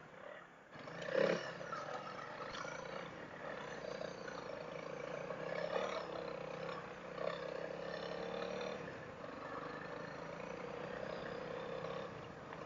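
Honda CRF dual-sport motorcycle's single-cylinder engine running steadily under way, heard muffled through the helmet-mounted intercom microphone, with a brief louder surge about a second in.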